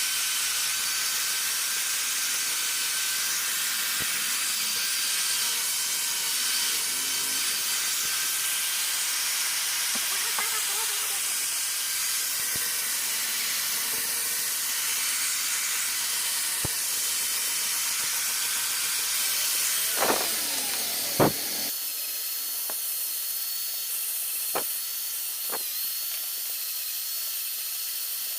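Steady high hiss with faint thin whining tones, and a few sharp taps from about twenty seconds in.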